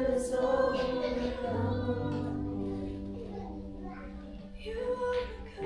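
Congregational worship singing: a group of voices, women's voices prominent, holding sustained sung notes over a low instrumental accompaniment.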